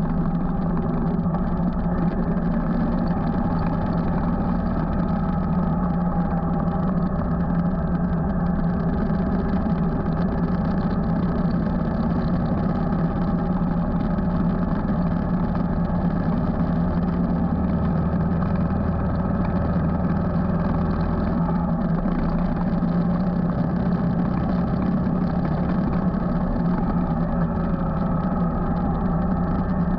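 Motorcycle engine running steadily at an even cruising speed while riding.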